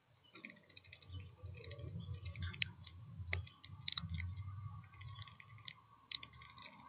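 Birds at a seed feeder making irregular light clicks and taps, over a low rumble.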